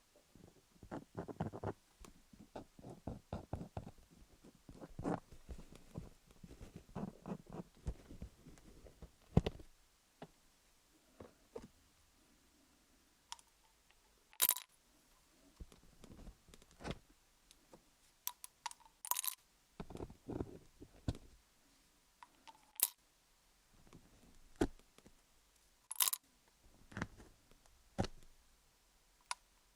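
Colored pencil scribbling on wooden picks fixed to an ASMR dummy-head microphone. The first ten seconds are quick runs of scratchy strokes; after that come sparser sharp clicks and short scrapes.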